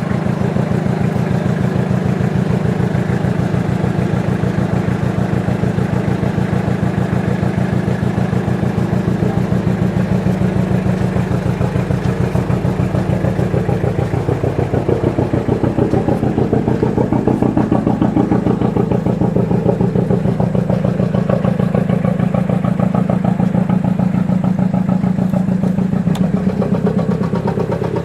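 An engine running steadily with a rapid, even pulsing, its note shifting briefly about halfway through.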